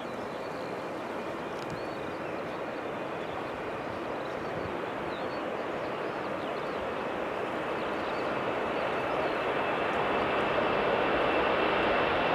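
Boeing 747-400 jet engines at takeoff power: a rushing jet noise with a steady high whine, growing steadily louder.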